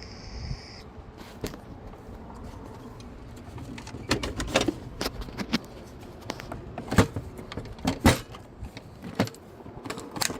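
Irregular sharp clicks and knocks of metal hardware and hand tools being handled during a gate latch repair, thickest in the second half. A brief high-pitched tone sounds in the first second.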